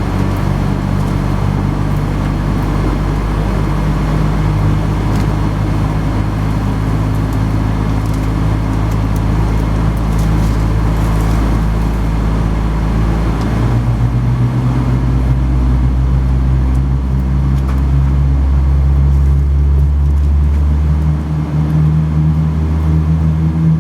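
Steady low machinery drone heard inside the cabin of a Boeing 777-200ER airliner during pushback and engine start, made up of several low hum tones. About halfway through, the hum shifts and grows louder.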